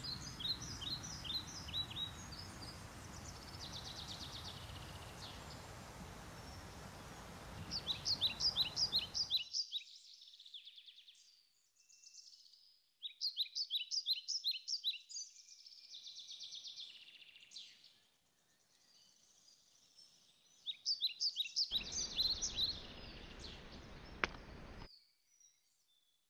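A small songbird singing short, fast, trilled phrases of high chirps, repeated about every few seconds, over a steady outdoor hiss that cuts in and out.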